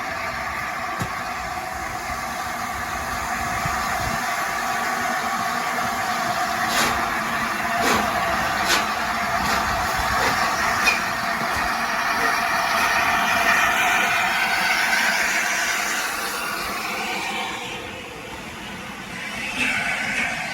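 A steam-hauled train running past on the rails: a steady rushing noise with a few sharp clicks in the middle, dropping away near the end.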